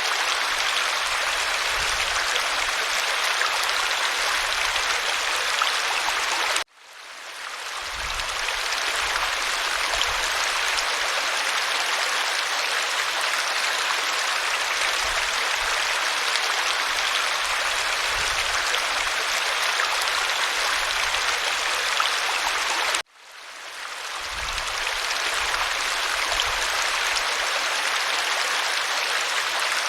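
Waterfall rushing, a steady dense hiss of falling water. It cuts out abruptly twice, about seven seconds in and again past twenty seconds, and swells back each time over a second or two, the seams of a looped recording.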